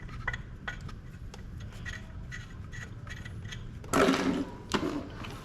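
Small clicks and rubbing of the oil-filler dipstick cap being screwed back into a Yamaha Fazzio scooter's engine after an oil change. There is a louder scraping knock about four seconds in and another shortly after.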